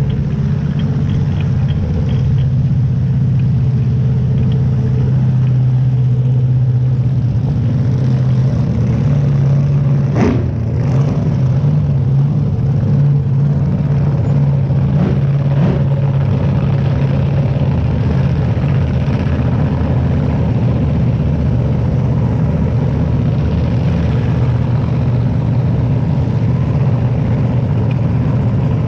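Front-engine dragster's engine idling with a steady, deep drone, with a couple of brief sharp knocks about ten and sixteen seconds in.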